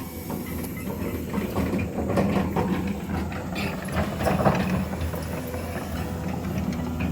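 Heavy machine's engine running steadily at a low pitch, with irregular metallic clanks and knocks over it.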